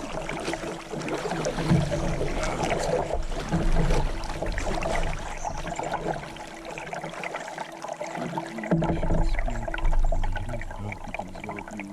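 Water sloshing and trickling around a kayak, with many small knocks and splashes.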